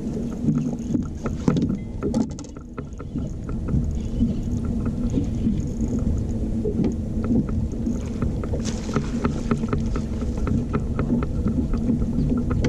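Boat motor running steadily, with scattered clicks and knocks over it.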